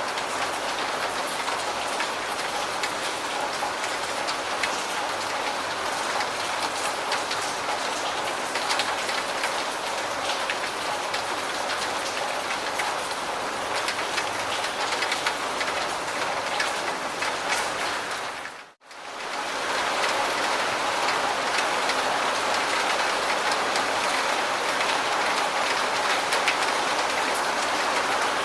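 Steady rain falling, a dense patter of drops hitting a surface. About two-thirds of the way through it fades out to near silence for a moment, then comes straight back slightly louder.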